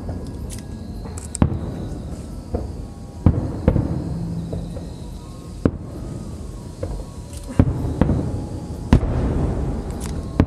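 Aerial firework shells bursting: a string of sharp bangs, roughly one every second or so, over a continuous crackling, rumbling din of the display.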